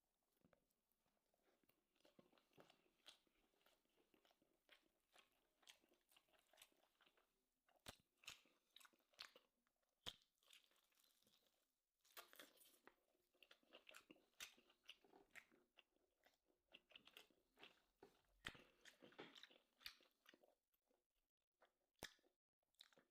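A person chewing steak in the mouth, with faint, irregular wet mouth clicks and soft crunches.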